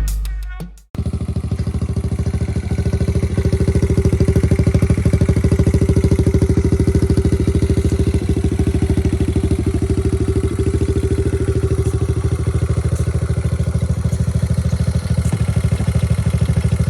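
Kawasaki KLX110 dirt bike's small single-cylinder four-stroke engine running at a steady, even pace, its firing pulses plain, a little louder about three seconds in. In the first second a drum-backed music track fades out before the engine cuts in abruptly.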